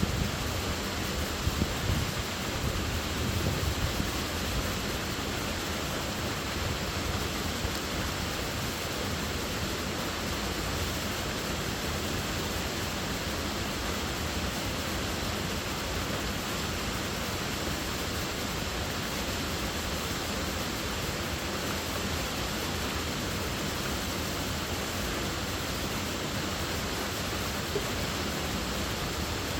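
Waterfall: water falling and splashing in a steady, even rush, with a few low gusty bumps in the first few seconds.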